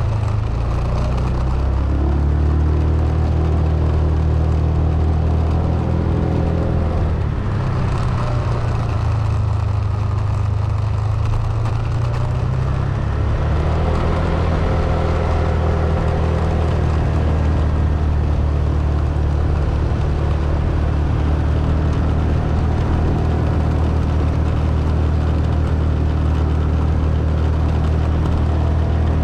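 Car engine running steadily with a low drone while driving. The drone fades and changes about seven seconds in and comes back strongly about six seconds later.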